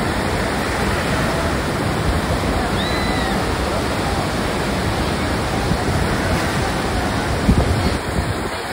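Steady loud rush of ocean surf and wind on the microphone, with faint distant voices.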